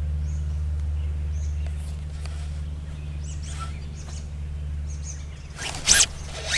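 Birds chirping faintly over a steady low rumble. Near the end comes a sudden loud rustle as the baitcasting rod is swept up to set the hook on a bite.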